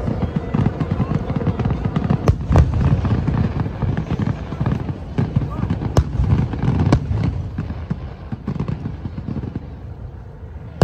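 Fireworks display: irregular sharp bangs over a steady low rumble of booms, easing off a little near the end, with crowd voices underneath.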